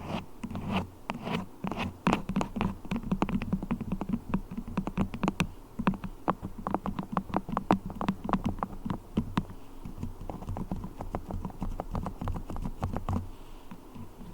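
Beeswax being tapped and handled close to the microphone as an ASMR trigger: quick, irregular sticky clicks, several a second, thinning out near the end.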